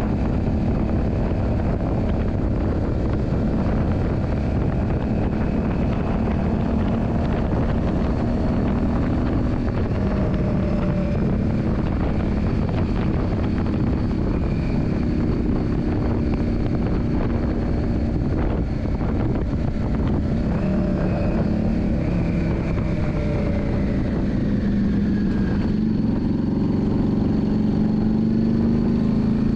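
Yamaha Drag Star 400's air-cooled V-twin running under way, with a rushing noise underneath. Its pitch sags slowly past the middle, then climbs again near the end as the engine picks up revs.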